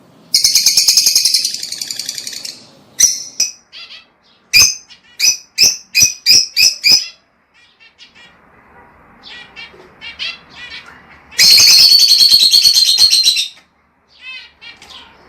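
Lovebirds calling: a loud, rapid chattering trill, then a run of about seven sharp chirps and some softer chatter, then another long, loud trill about two thirds of the way through.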